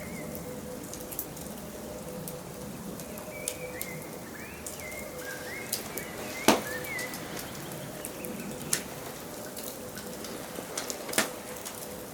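Wood fire crackling steadily with sharp pops, the loudest about halfway through, while small forest birds chirp short rising and falling notes.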